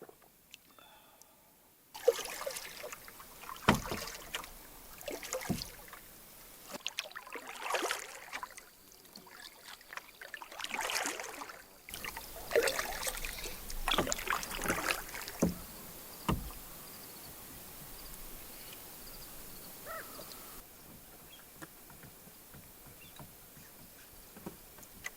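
Canoe paddling: repeated swishes of water with the paddle strokes and a few sharp knocks of the paddle against the hull, quieter in the last several seconds.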